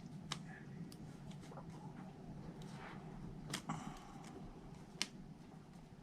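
Faint, sharp clicks and soft paper rustling as the release backing is peeled off small foam adhesive dimensionals, the loudest click about five seconds in.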